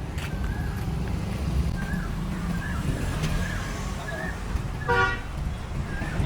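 Street traffic: a steady low rumble of passing vehicles. A vehicle horn toots once, briefly, about five seconds in.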